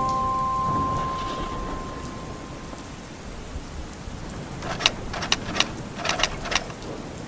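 Steady rain falling, with a scattering of sharp drips and taps in the second half.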